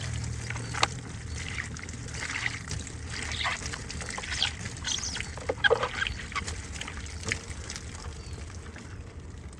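Small-scale water trickling and splashing with irregular wet clicks and squelches, the sound of a muddy diecast model car being washed, over a low steady hum.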